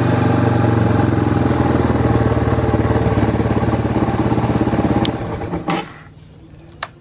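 Yamaha Serow 225's single-cylinder four-stroke engine running steadily at raised revs, then dying away and stopping about six seconds in, followed by a sharp click. It is a replacement engine, running cleanly with no abnormal noise.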